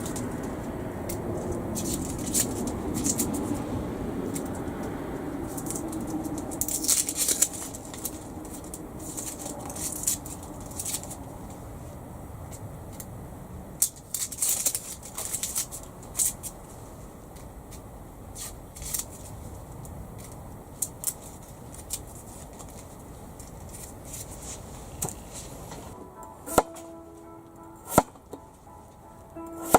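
Wood campfire crackling with irregular sharp pops. Background music with sustained notes comes in near the end.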